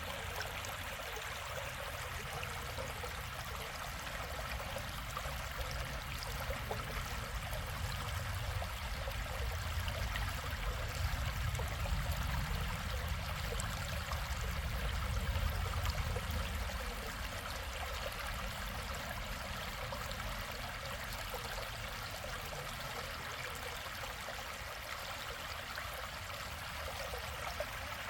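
Mountain stream water flowing in a steady rush, with a deeper rumble that swells and fades in the middle.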